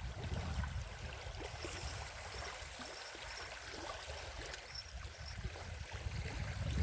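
Wind buffeting the microphone in an uneven low rumble, over the faint wash of small waves lapping at a lake shore.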